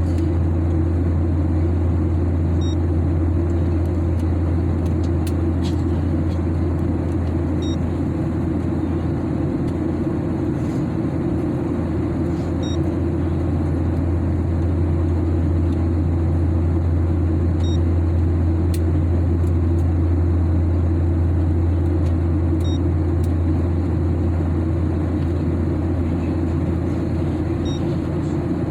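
Steady airliner cabin noise during the climb: an even, deep engine and airflow drone with no change in level. Short faint electronic beeps sound about every five seconds over it.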